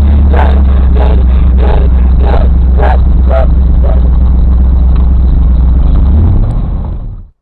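Off-road vehicle's engine running with a loud, steady low rumble, and a dog barking repeatedly, about twice a second. Both fade out near the end.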